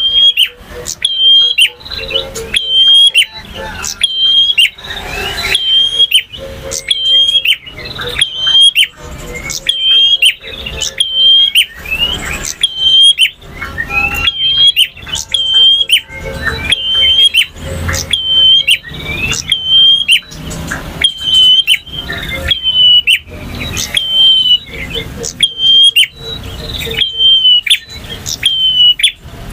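Male prinia (prenjak) singing: one sharp, high chirping note repeated about once a second, with softer twittering notes in between.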